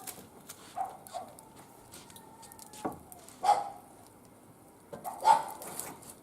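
A dog giving a few short barks, the two loudest about three and a half and five seconds in, with a thin whine between them. Small clicks and pops of a wood fire crackle underneath.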